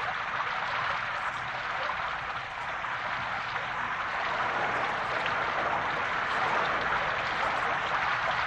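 Steady hiss of rain, with a fine patter of drops.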